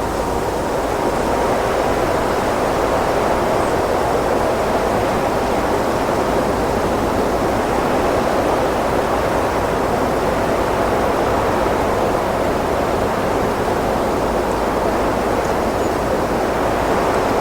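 Wind blowing steadily, an even rushing noise that swells slightly over the first couple of seconds and then holds level.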